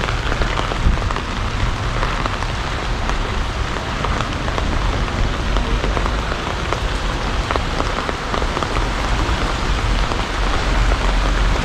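Heavy rain falling steadily, with a dense patter of many individual drops.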